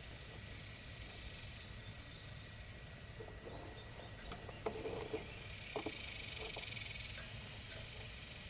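A few faint short grunts and knocks from pigs, clustered in the middle, over a steady low hiss.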